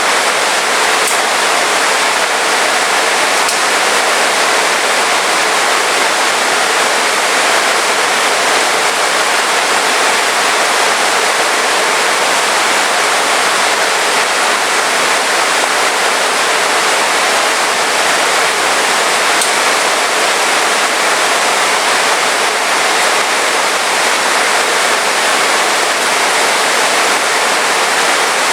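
Heavy rain falling in a steady, dense hiss with no breaks.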